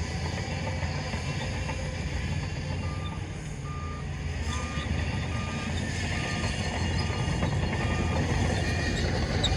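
Heavy diesel machine running with a low rumble, its reversing alarm starting about three seconds in and beeping steadily, a little under twice a second, while it backs up.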